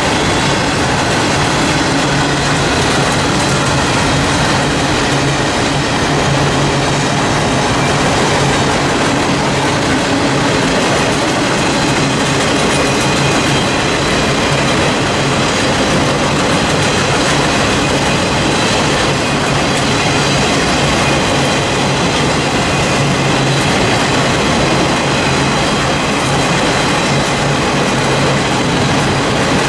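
Freight cars of a BNSF train rolling past close by: a steady, unbroken run of wheel-on-rail noise with clickety-clack from the wheels over the rail joints.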